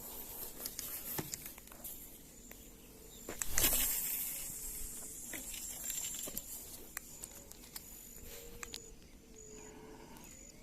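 Outdoor riverbank ambience with an insect chirping in short, evenly repeated high notes. There is a brief rustle about three and a half seconds in, and a few light clicks.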